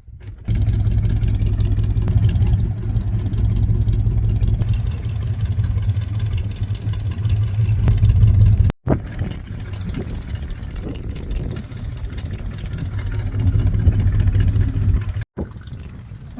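Car engines running with a deep, steady rumble as vehicles drive past. It comes in three stretches that begin and end abruptly, about half a second in, near 9 s and near 15 s.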